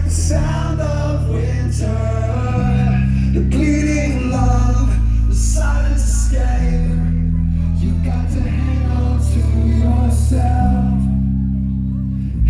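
Rock band playing live: a male voice singing over guitar and a bass line that moves to a new note every second or two, with repeated cymbal hits.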